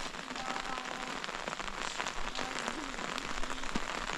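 Heavy rain falling steadily, with many separate drop hits through the hiss.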